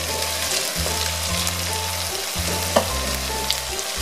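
Chunks of sweet pumpkin and onion sizzling steadily in oil in an uncovered wok on a low flame, over background music with slow low bass notes. A single sharp click about three-quarters of the way through.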